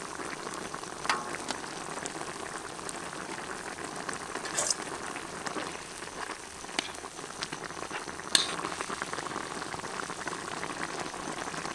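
Chicken pieces, grapes and onions sizzling and bubbling in a thin sauce in a large wok, with a few sharp clicks of metal tongs against the pan as the food is stirred.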